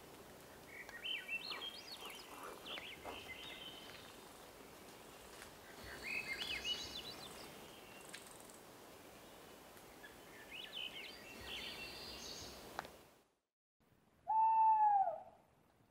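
A songbird sings three short phrases of quick, jumping high notes a few seconds apart over a faint background hiss. After a brief dropout, a single loud arched animal call, about a second long, sounds near the end.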